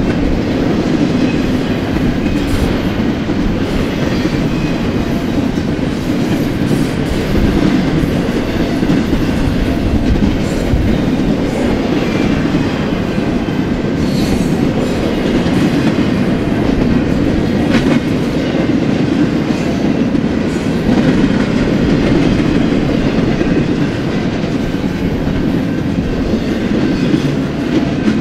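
Double-stack intermodal freight train's well cars rolling past at steady speed: the continuous noise of steel wheels on rail, with a few sharp clicks scattered through it.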